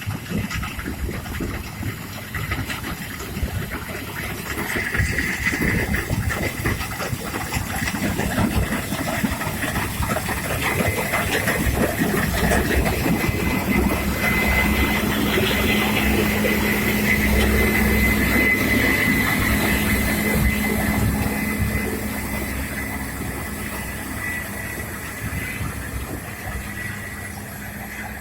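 Harvest machinery running: a steady engine with a high whine and a lower hum, growing louder through the first half and fading towards the end.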